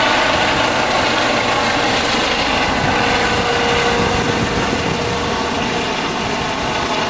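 Helicopter taking off: a steady high turbine whine over loud rotor noise, easing slightly as it lifts away.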